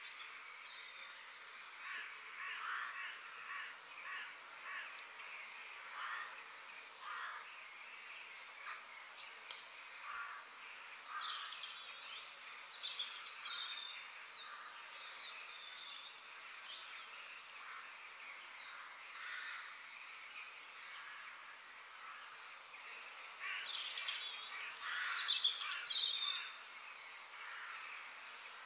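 Faint birdsong: scattered chirps and short calls, with a louder flurry of calls near the end.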